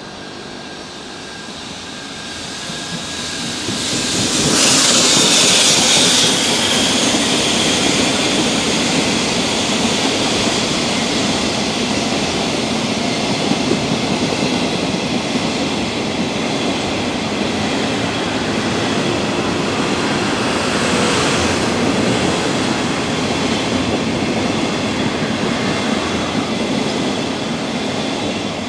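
A coal freight train of covered hopper wagons running past close by, its wheels making a steady loud rumble on the rails. The noise builds over the first few seconds, is loudest with a high hiss from about four to six seconds in, then holds steady as the wagons roll by.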